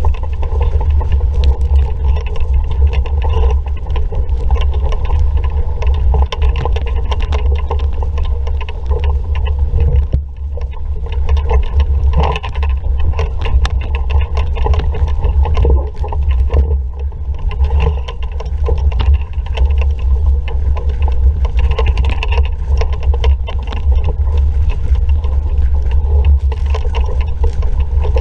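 Wind buffeting the microphone as a steady low rumble, over the hiss and splash of water rushing past a sailing dinghy's hull, with scattered small knocks and clicks.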